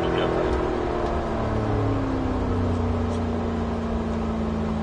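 Porsche 911 991.1 GT3's flat-six engine heard from inside the car, its note falling steadily from about a second in as the revs come down.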